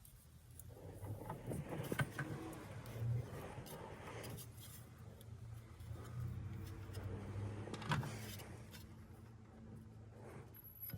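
Sharp metal clicks and knocks as the belt tensioner is levered down and a serpentine belt is worked onto the pulleys, two of them louder, about two seconds in and near eight seconds. A steady low hum runs underneath.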